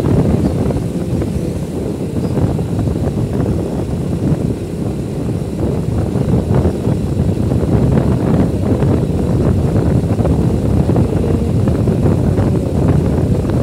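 Wind buffeting the microphone on a moving motorbike, a steady loud rumble with vehicle noise under it.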